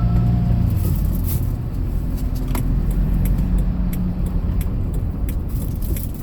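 Hyundai Porter II box truck driving: steady low engine and road rumble, with scattered light clicks and rattles throughout.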